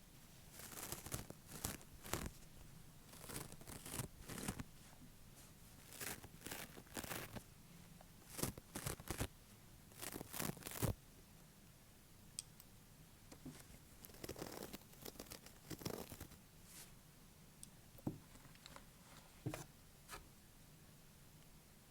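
Fake nails tapping and scratching on an object in quick, irregular clusters of short crisp strokes. The strokes are busier in the first half and sparser after about twelve seconds.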